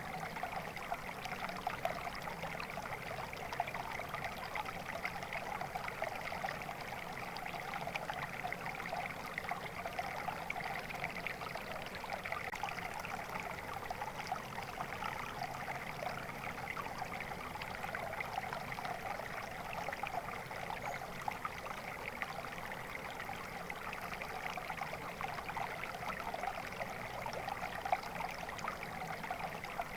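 Water flowing steadily in a stream, a continuous even babble and splash of running water.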